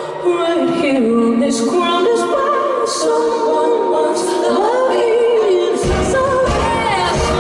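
Live concert music: a woman's voice sings long, wordless, wavering runs over sustained accompaniment chords. A deep bass comes in about six seconds in.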